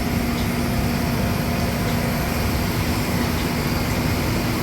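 Steady machinery drone with a constant low hum, the running of ground equipment around a parked aircraft.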